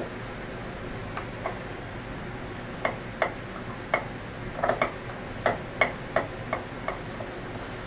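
Light, irregular metallic clicks and taps of hand tools and small parts as the scroll pump's pin crank needle bearings are worked loose, about fifteen sharp clicks, bunched most thickly in the middle.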